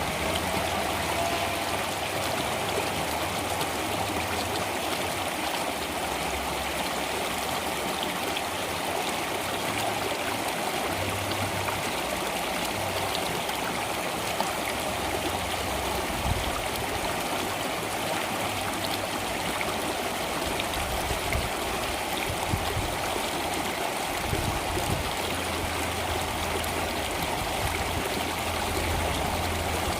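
Flowing water running steadily, like a stream, with a low rumble that comes and goes underneath.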